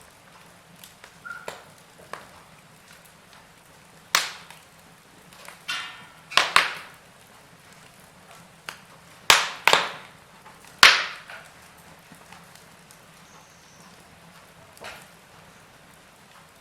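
Wood fire crackling in a fireplace: a scatter of sharp, irregular pops and cracks, the loudest about four, six and a half, nine and a half and eleven seconds in, over a faint steady background.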